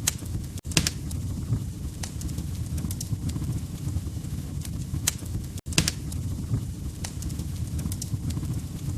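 Log fire crackling: a steady low rumble of burning wood with sharp pops and snaps at irregular intervals.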